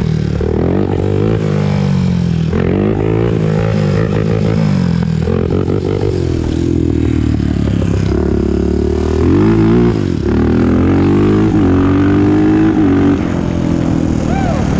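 Honda TRX400EX four-stroke single-cylinder ATV engine under way, its pitch climbing and dropping several times as it accelerates through the gears, then holding higher and steadier, with a brief drop off the throttle about ten seconds in.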